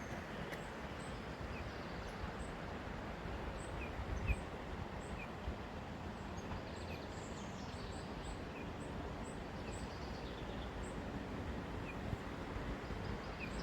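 Steady outdoor background noise, heaviest in the low end, with small birds giving short, high chirps every second or so throughout.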